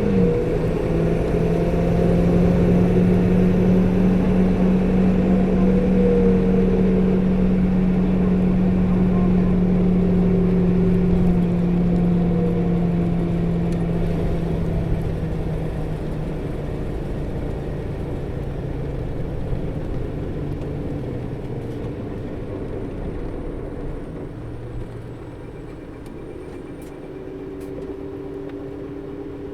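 Diesel engine and cooling fan of a 2008 UD Space Runner RA city bus (PKG-RA274KAN), heard from inside the bus while under way. This bus's coupling fan runs all the time and is loud for the engine speed. A steady drone holds for the first half, then dies away over the second half as the bus eases off, with a different steady hum returning near the end.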